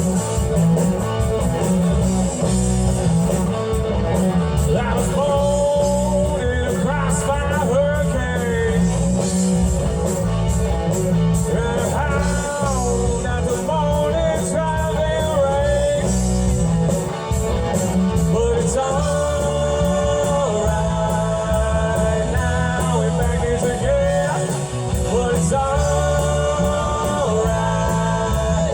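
Live rock band playing a song with a singer, electric guitar, bass and drums over loudspeakers, heard steadily and loud.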